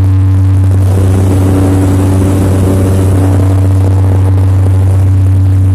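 A seaplane's propeller engine running with a steady drone, heard from inside the passenger cabin. A rushing noise swells over it between about one and three seconds in.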